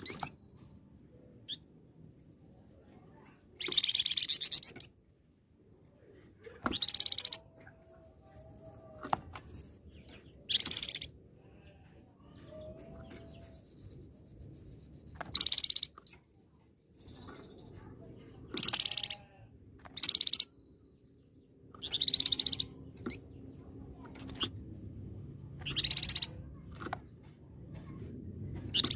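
Flamboyan songbird singing in loud, high, short bursts, about ten phrases each under a second or so long, separated by pauses of one to three seconds, with faint thin calls between them.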